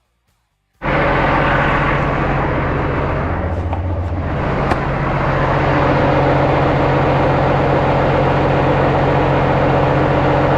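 Heavy truck's diesel engine running steadily, cutting in suddenly about a second in and easing briefly around four seconds in.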